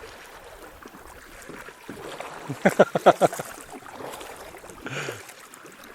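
Kayak paddling on a shallow creek: water moving around the boats with a quick run of splashes and knocks about two and a half seconds in. A short voice sound comes near the end.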